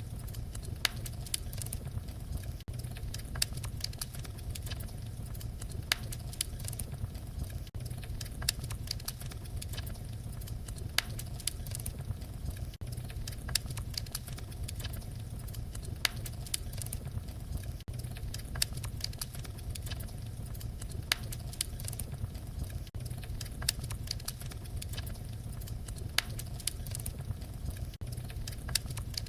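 Wood fire crackling: frequent sharp pops and clicks at irregular intervals over a steady low rumble of the flames.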